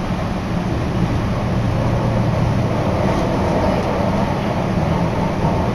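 Steady running noise of a Meitetsu Tokoname Line electric commuter train heard from inside the carriage: a low rumble and hum from the wheels and motors, with no change in pace.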